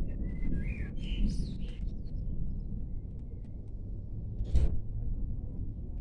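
A bird calling in a few quick chirps during the first two seconds, over a low rumbling outdoor noise that continues throughout. A short, sharp burst of noise comes about four and a half seconds in.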